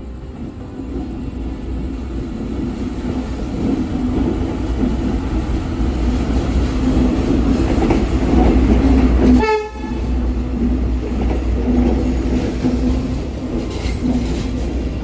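A train running past, a steady rumble and rattle of wheels on rails that grows louder through the first two-thirds, drops briefly about nine and a half seconds in, then carries on.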